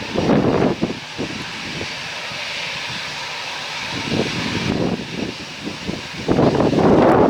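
Airbus A320 jet engines running during a landing, a steady hiss under strong gusts of wind buffeting the microphone in irregular low rumbles. The wind is loudest near the end.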